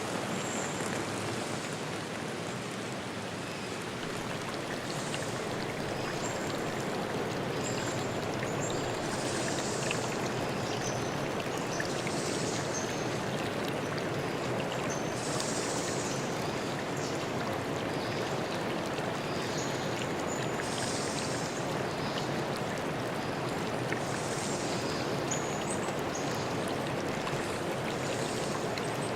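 A forest stream flowing with a steady rushing sound, with short high bird chirps scattered throughout.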